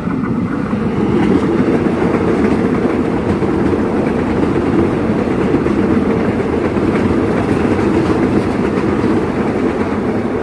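Train passing close by: a loud, steady rumble and rattle of its wheels running on the rails, with no horn sounding.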